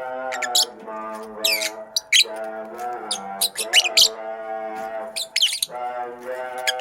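Lovebird giving a string of short, sharp chirps and squawks, over background music with long held notes.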